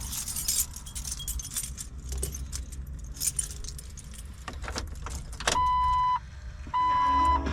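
A ring of keys jangling as the Jeep's key is handled and put in the ignition. About five and a half seconds in, the Jeep's warning chime starts: steady, evenly spaced beeps about half a second long, roughly one a second, two of them before the end.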